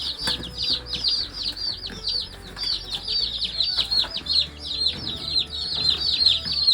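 A brood of day-old chicks and turkey poults peeping all together: a dense, continuous stream of overlapping high cheeps, each one falling in pitch.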